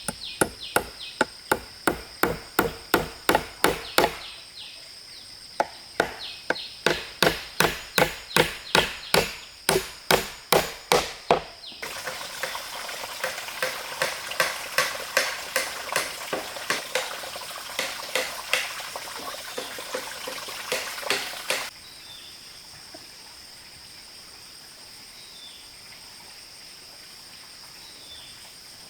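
Wood being cut with a hand saw in quick, regular strokes, a few a second, with a short pause, then a faster, denser run of strokes that stops suddenly a little past two-thirds of the way in. Insects keep up a steady high buzz throughout and are all that is left at the end.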